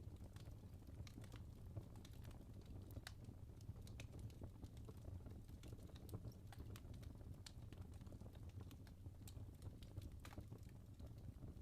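Wood fire burning in a fireplace, with irregular small crackles and pops from the logs over a faint low rumble.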